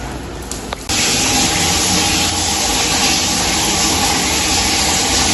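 Sink tap turned on about a second in, with water gushing steadily into the washroom sink. The water is run to check the newly replaced pipe section under the sink for leaks.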